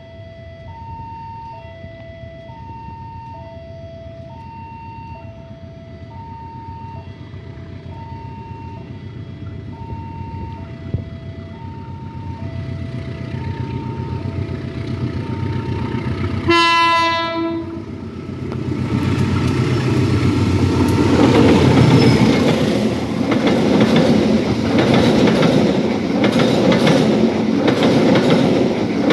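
Level-crossing warning signal sounding a repeating two-tone ding-dong while a train approaches with a growing rumble. About seventeen seconds in, the locomotive's horn gives one short blast. The train then passes close by, loud, with rhythmic wheel clatter on the rails.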